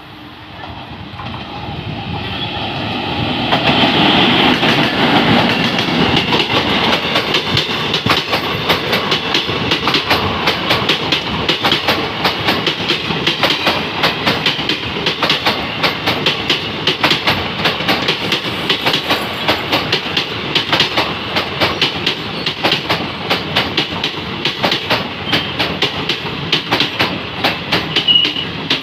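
Indian Railways passenger train hauled by a WAG-9 electric locomotive, growing louder over the first few seconds as it approaches. Then its sleeper coaches pass close at speed, the wheels clattering in rapid clicks over the rail joints.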